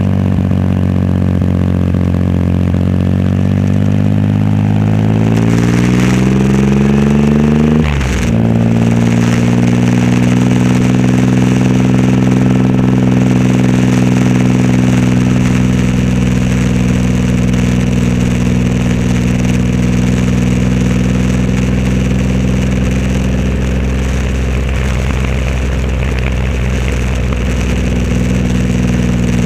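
Triumph Rocket 3 Roadster's three-cylinder engine through a custom exhaust, pulling with rising pitch for about eight seconds, then a brief break for a gear change, then running at a steady pitch while cruising, with wind noise.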